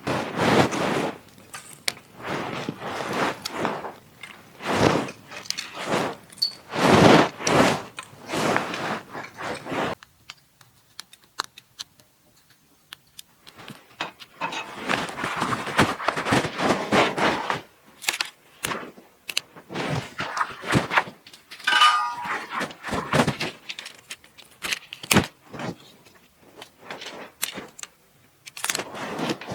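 Handling noise: irregular bursts of rustling and clattering, broken by sharp clicks and knocks.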